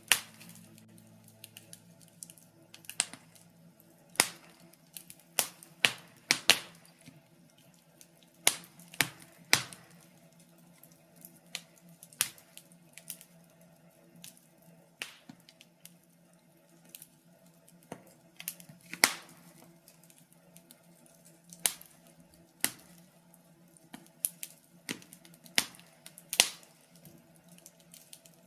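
Wood fire burning in a fireplace, crackling with irregular sharp pops and snaps, some loud and most faint.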